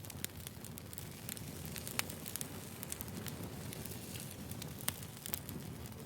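Wood fire burning with a steady low rumble and hiss and many sharp crackles and pops, a few louder snaps about two seconds in and near five seconds.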